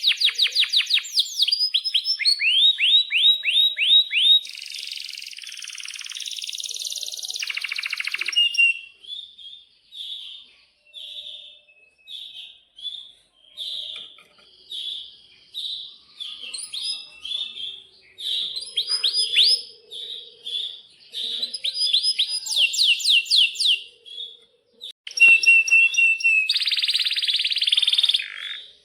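Domestic canary singing: long rolling trills of fast, repeated downward-sweeping notes, then a run of short separate chirps, then more fast trills and a buzzy roll near the end.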